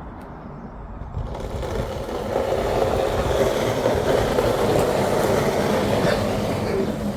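A motor vehicle driving past close by, its engine and tyre noise swelling from about a second in, loudest in the middle, then easing off near the end.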